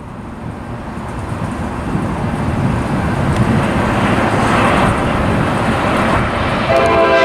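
Diesel locomotive of an Amtrak Pacific Surfliner train approaching, its rumble growing steadily louder as it nears. Near the end its multi-tone horn starts to sound.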